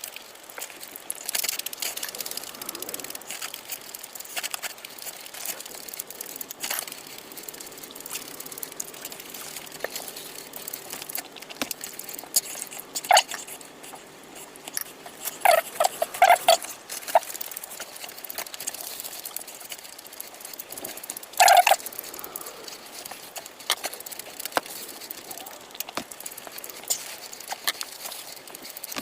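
A person eating spicy food fast, close to the microphone: a steady run of chewing and wet mouth clicks, with a few louder bursts about halfway through and again later.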